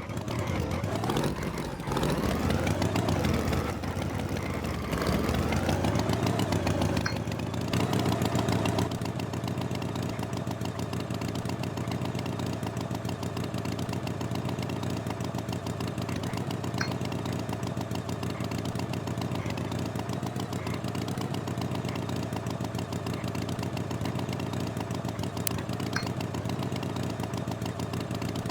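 An engine revving up and down for the first several seconds, then settling into a steady idle.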